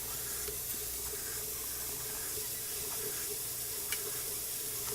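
Small model steam engine running steadily under light steam, with a continuous hiss of steam and a faint, even working sound from its mechanism. There is a single small click about four seconds in.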